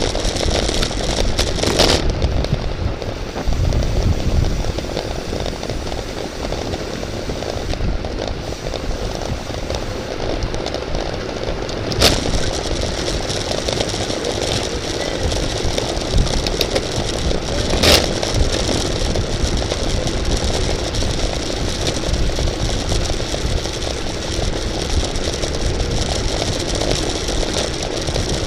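Steady wind rush and road noise on a camera microphone riding along in a bicycle race, with a continuous low rumble. Two sharp clicks stand out, about twelve and eighteen seconds in.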